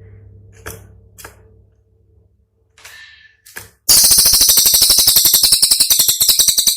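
Cililin bird song: a few short, faint chip notes, then about four seconds in a loud, very fast, dry rattling trill of high notes, about fifteen a second, the sharp 'tembakan' phrase prized in masteran recordings.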